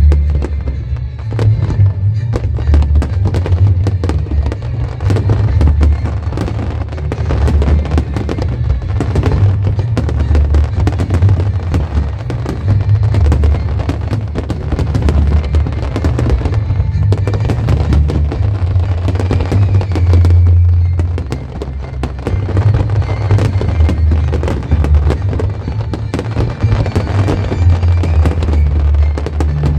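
Fireworks bursting again and again, with bangs and crackles over loud music that has a heavy bass.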